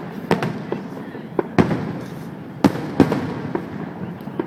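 Aerial fireworks going off in a string of sharp bangs at irregular intervals, the loudest about a second and a half in and a pair near three seconds, with lighter pops between them.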